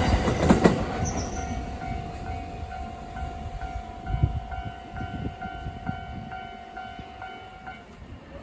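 Train moving away from a level crossing: a few wheel clacks over the rail joints in the first second, then its running noise fades steadily. Through it the crossing's warning signal keeps sounding a short tone repeated about twice a second over a steady tone, stopping near the end.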